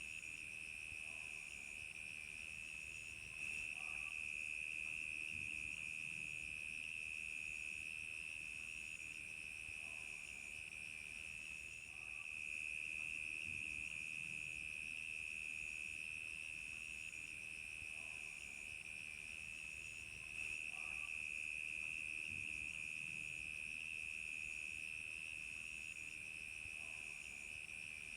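Crickets chirping in a steady night chorus: an unbroken high trill, with a fainter, higher chirp pulsing evenly above it.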